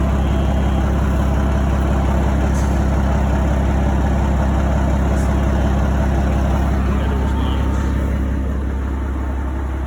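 Freightliner FLD120 semi truck's diesel engine idling steadily, a loud, deep even rumble that eases off slightly near the end.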